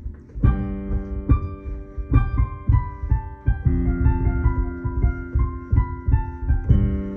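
Piano playing an instrumental passage: sustained chords with repeated struck notes and a melody on top, the chord changing twice.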